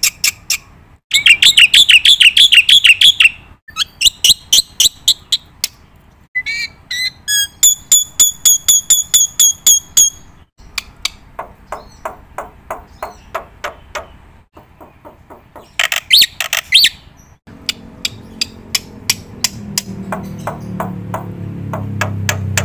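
Bird chirping and trilling in fast runs of sharp, high notes, phrase after phrase with short pauses. A low hum builds up under it near the end.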